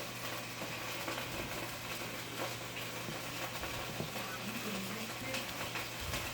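Breaded steak sizzling steadily as it shallow-fries in a hot skillet of butter and coconut oil.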